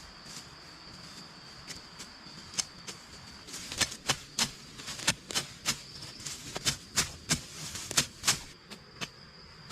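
A run of sharp knocks, about two to three a second, thickest from about four to eight and a half seconds in, over a steady high-pitched insect drone.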